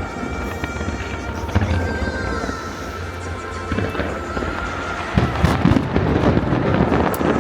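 Fireworks bursting with sharp bangs, more frequent and louder from about five seconds in, over music accompanying the display.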